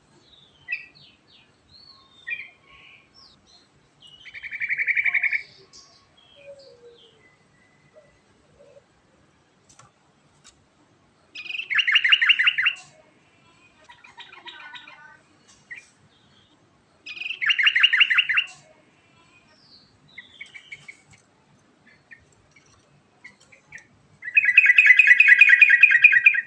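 Yellow-vented bulbul singing: scattered short chirps and whistles, broken by fast rolling trills about every five or six seconds. The last trill, near the end, is the loudest and longest.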